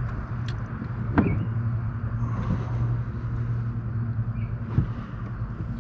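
Steady low motor hum, with a sharp knock about a second in and another near the end.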